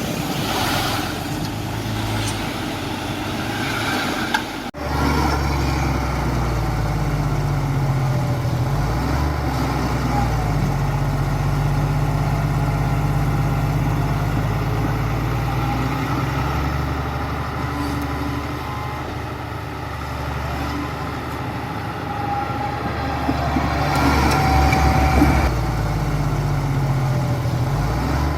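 Heavy diesel engine of construction machinery running steadily at low revs, with a brief break about five seconds in.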